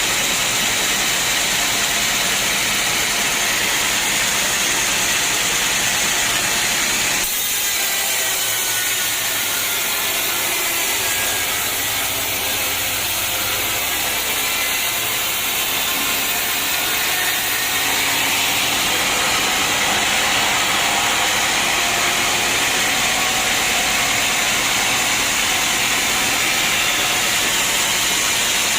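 Sawmill saw cutting through a teak log: loud, steady machine noise, with an abrupt shift in tone about seven seconds in.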